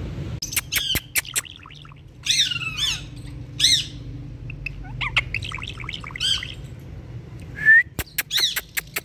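Pet parrots calling: sharp clicks and short, shrill arched squawks in irregular bursts, with a stretch of chattering in the middle and a quick rising call near the end.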